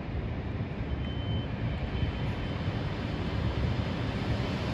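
Electric commuter train approaching along the platform at low speed, a steady low rumble that grows slightly louder, with a short high tone about a second in.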